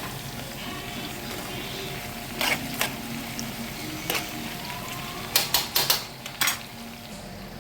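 Cooking utensils clinking and clattering against a pan: a few sharp knocks around two to four seconds in, then a quick cluster of clatters near six seconds, over a steady background hiss.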